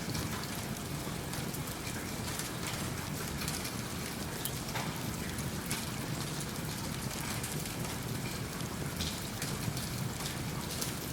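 Steady rain falling, with occasional faint crackles from a wood fire in a fireplace.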